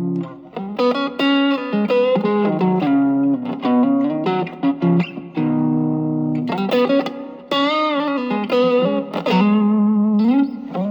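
Electric guitar played through an Ibanez TS808 Tube Screamer reissue fitted with a 1980 Malaysian RC4558P op-amp chip, set as a boost: picked chords and single-note lead lines, with string bends about two thirds through and again near the end.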